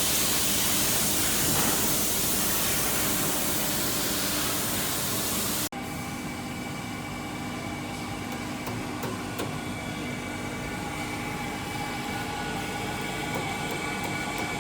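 Factory production-line machinery. First a loud, steady hiss for about six seconds, then an abrupt change to a steady machine hum with several fixed whining tones and scattered light clicks.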